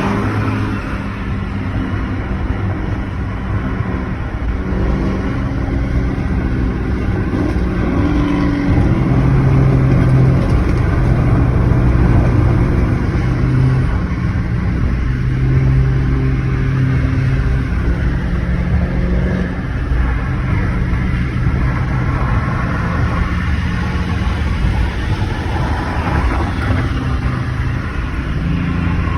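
Car engine running steadily with a low droning note that shifts up and down in pitch as the revs change, over a bed of road and engine noise; this is the 2017 Dodge Charger SXT's 3.6-litre V6 while cruising.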